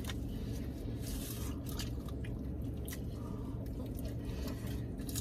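Close-up eating sounds: chewing and biting of loaded nachos and a wet burrito, with a few short crunches and clicks of tortilla chips, over a steady low hum.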